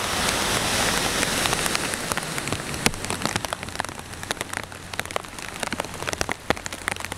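Heavy rain falling, a dense hiss with many individual drops tapping close by. The hiss thins after about three seconds, leaving more separate drop ticks.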